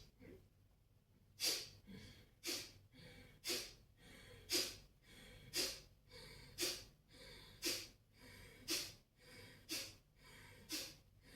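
Kapalabhati breathing: sharp, forceful exhales through the nose, driven by pumps of the abdomen, about one a second after a brief pause at the start, with passive inhales between.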